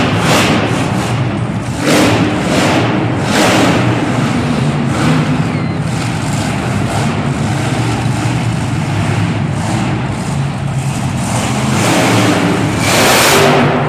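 Monster truck's supercharged V8 engine running loudly, with repeated bursts of throttle; the strongest burst comes near the end.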